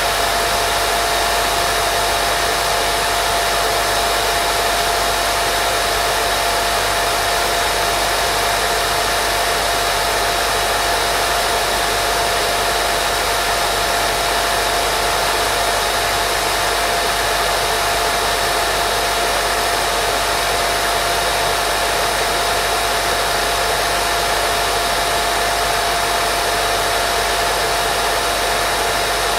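Steady white noise for baby sleep: an unchanging hiss, mostly above the low range, with a faint steady tone running through it.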